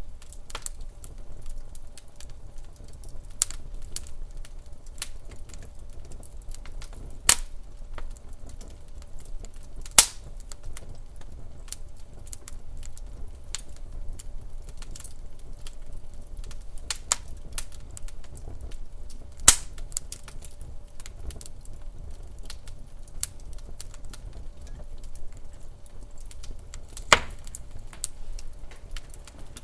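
Wood fire crackling in a fireplace: a steady low rumble of burning with irregular small crackles and a few louder sharp pops, about 7, 10, 19 and 27 seconds in.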